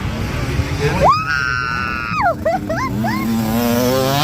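A spectator's high-pitched cheering scream held for about a second, followed by a few short shouts, over a steady rumble of wind and engines. Near the end a motocross bike's engine rises in pitch as it comes closer.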